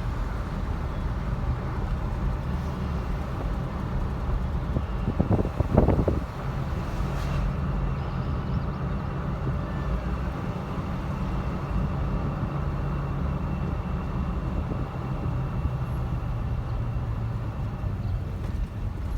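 Steady road and engine rumble heard from inside a moving car, with a brief louder sound about five seconds in.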